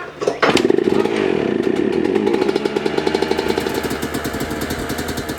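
Motocross dirt bike engine running with a rapid firing rattle. It comes in suddenly about half a second in and slowly fades, its pitch easing down.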